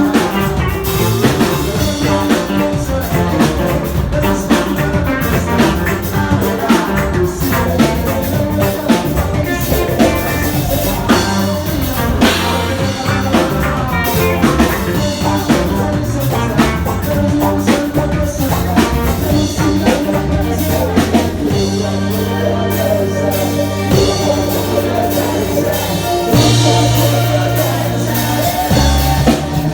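Ska-reggae band music with drum kit and bass, and a voice singing over it.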